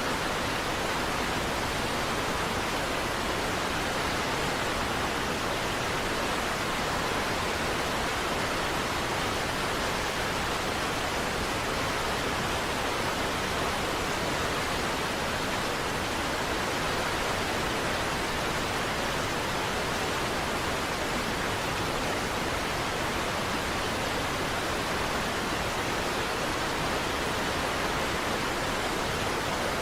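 Water of Niagara Falls pouring down: a steady, unbroken rush of water noise that does not change.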